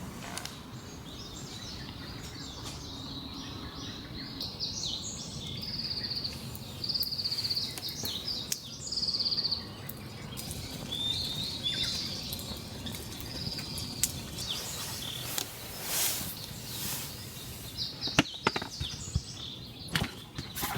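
Wild birds calling and trilling over a steady background hiss. Several sharp snaps or clicks come in the last third.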